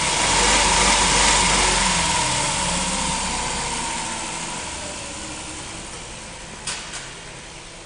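2006 Dodge Grand Caravan's 3.3-litre V6 engine running, gradually getting quieter over several seconds. Two short clicks come near the end.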